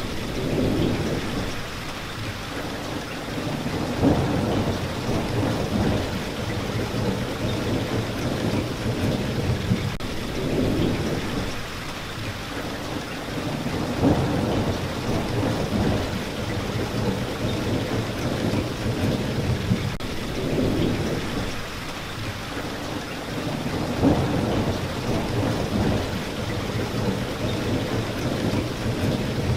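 Steady rain with rolling thunder: low rumbles swell and fade every few seconds over the hiss of the rain, with a sharper peak about every ten seconds.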